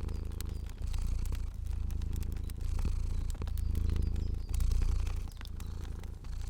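Cat purring, a low steady rumble that swells and dips with each breath, under the scattered small pops of a crackling fire.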